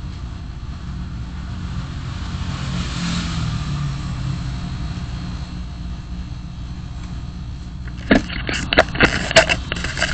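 A car driving, with steady engine and road noise that swells for a moment about three seconds in. Near the end comes a quick run of sharp, irregular clicks and knocks.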